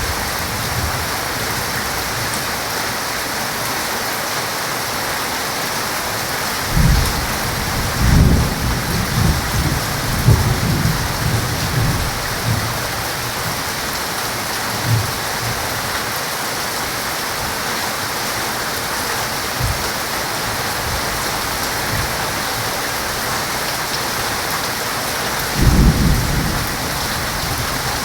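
Heavy rain falling steadily, with thunder rumbling through it in rolling bursts about a quarter of the way in and again near the end.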